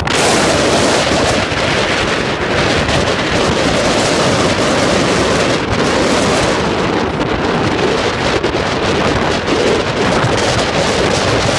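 Wind blowing hard across the microphone: a loud, steady rush of noise that rises and falls a little.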